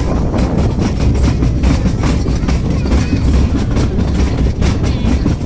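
Small sightseeing train running along its track: a steady heavy rumble with frequent wheel clicks and clatter.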